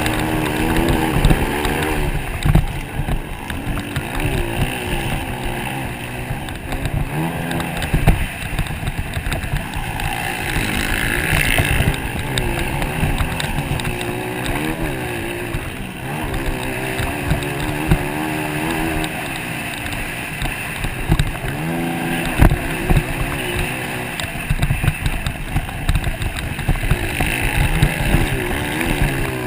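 Motocross bikes racing, their engines revving up and down again and again as the riders accelerate, shift and back off.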